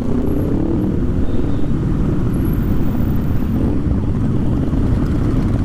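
Motorcycle engine running steadily while riding, with a dense low rumble and wind noise on the helmet-mounted action-camera microphone.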